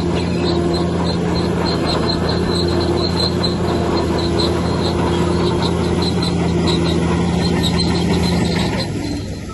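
Heavy diesel earthmoving machine running steadily, with a high squeak repeating about three times a second. The engine sound drops away near the end.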